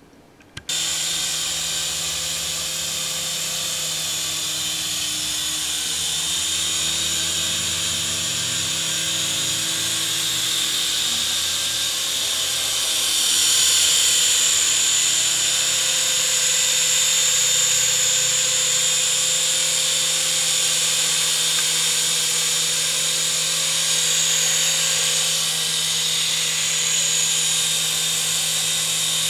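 Syma S111G toy RC helicopter's small electric motors and rotors whining steadily. The whine starts abruptly about a second in and gets louder about halfway through.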